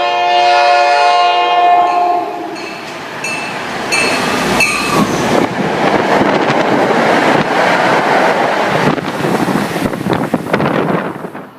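Train horn sounding one long chord-like blast as a train approaches the station, followed by the loud rush of the train passing through at speed, which dies away sharply near the end.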